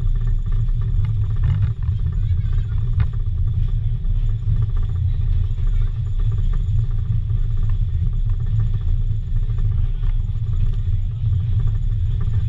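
Steady low rumble of a steam-hauled passenger train running along the track, heard from on board the coach.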